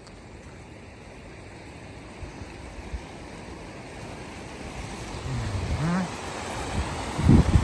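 Steady rushing water, growing louder over the last few seconds, with low wind thumps on the microphone near the end.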